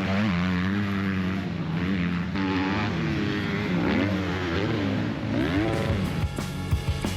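Several motocross dirt bikes racing, their engines revving up and down in pitch as the riders work the throttle and shift. About six seconds in, background music with a beat comes in.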